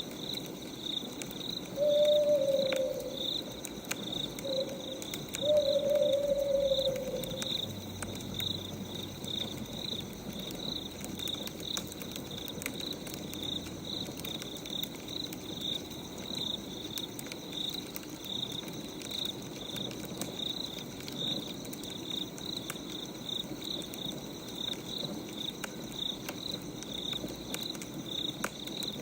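Night nature ambience: crickets chirping steadily at about two chirps a second, with an owl hooting twice in the first third. Faint scattered crackles of a wood fire run underneath.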